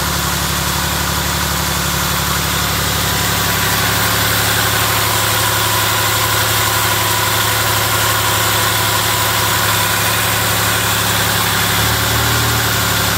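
2005 Ford Escape XLT's 3.0-litre Duratec V6 idling steadily, with a brief change in its low hum near the end.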